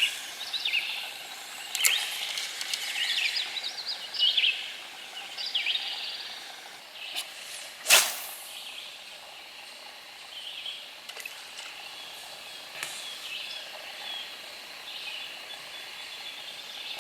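Birds singing and chirping in short repeated phrases over a faint steady hiss, with a few sharp knocks, the loudest about eight seconds in.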